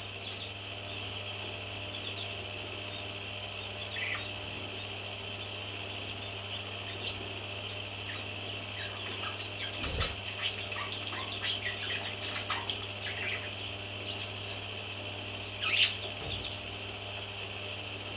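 Baby parrots chirping: a steady high chorus with scattered short chirps, busiest in the middle, and one louder call near the end.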